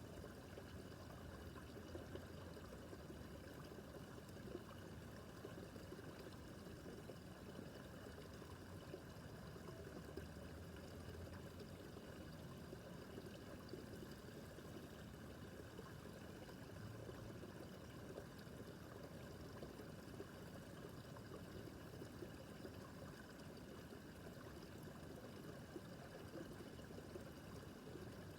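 Babbling brook, its water running with a steady, unbroken rushing and trickling.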